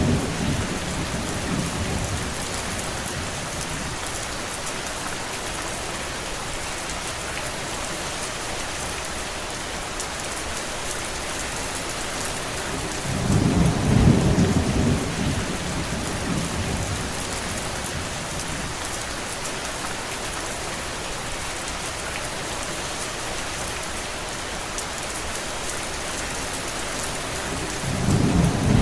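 Steady heavy rain, with a low rumble swelling for about two seconds around the middle and again at the very end.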